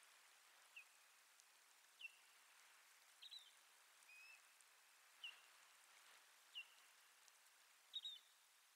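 Faint bird calls in near silence: short high chirps about once a second, a couple of them doubled, over a faint steady hiss.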